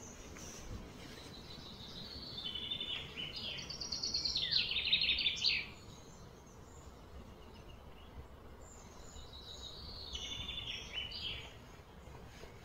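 A bird singing in two phrases of fast, repeated high notes. The first grows louder and stops sharply, and a softer second phrase follows a few seconds later.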